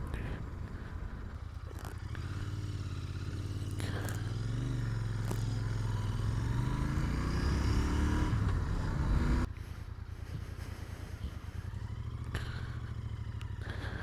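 Royal Enfield Interceptor 650's parallel-twin engine running on the move, its note shifting up and down in pitch through the middle, then dropping abruptly to a quieter, steadier sound about nine and a half seconds in.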